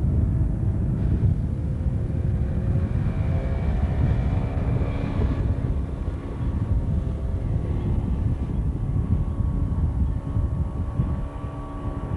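Inflatable boat's outboard motor running steadily under way, over a dense low rumble, its pitch shifting slightly partway through.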